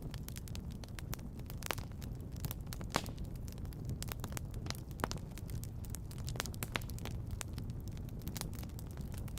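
Wood fire crackling, with frequent irregular sharp pops and snaps, the sharpest about three seconds in, over a steady low rumble.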